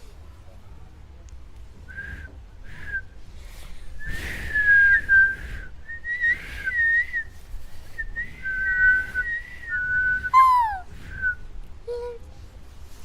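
A series of clear whistled notes: short pips, then longer held, wavering phrases, and a quick falling note about ten and a half seconds in.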